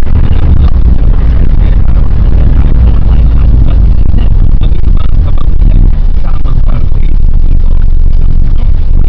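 1998 Nissan Eagle pickup truck being driven: a loud, steady low rumble of engine and road noise.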